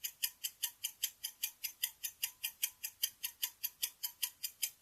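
Ticking-clock countdown sound effect, with quick, even ticks about five times a second.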